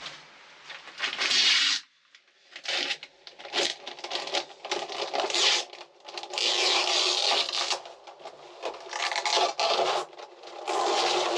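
Irregular bursts of rubbing and scraping, some short and some lasting a second or more, from work on a freshly epoxied bulkhead just after its peel ply has come off.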